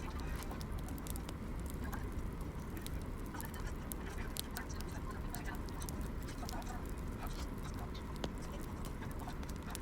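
Wood fire crackling: many small irregular snaps and pops over a steady low rumble of burning logs.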